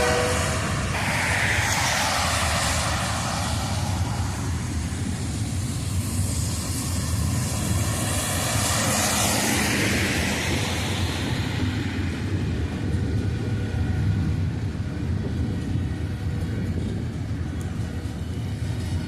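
Diesel freight locomotives, a GE AC4400CW and an EMD SD70ACu, passing: the horn cuts off about a second in, leaving a steady low engine rumble with a rushing hiss of wheels and rain that swells and fades.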